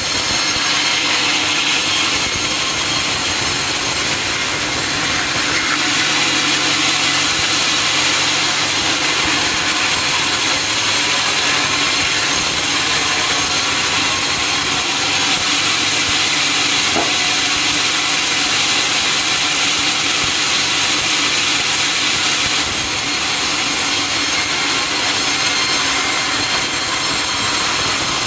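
Sawmill saw cutting through a teak log: a steady, unbroken cut.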